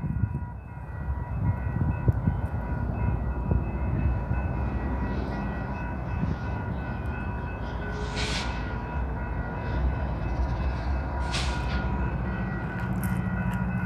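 Train running on the line with a steady low rumble, and two short hisses about 8 and 11 seconds in.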